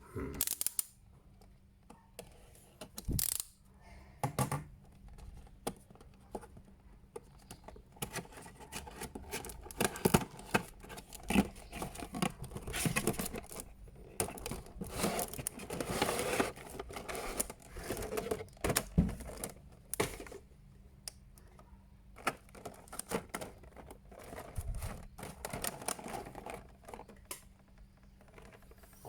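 Plastic toy packaging being handled and unsealed: irregular clicks, taps and crinkling of clear plastic, busiest in the middle.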